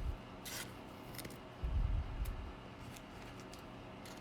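Packs of baseball cards being handled and opened: a short crinkle of a wrapper about half a second in, a few light ticks, and a dull bump near the middle.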